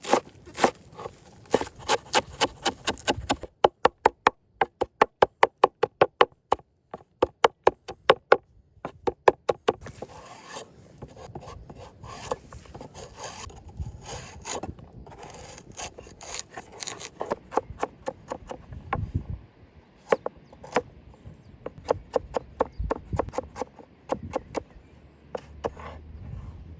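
Rhythmic rasping strokes, about four a second, stopping and starting a few times. After about ten seconds they give way to slower, irregular scraping and occasional taps.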